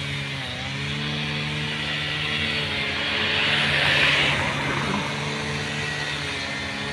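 Freight train of tank wagons rolling past on the rails: a steady rumbling rush with a droning hum of several steady tones, the rush swelling loudest about three to four seconds in.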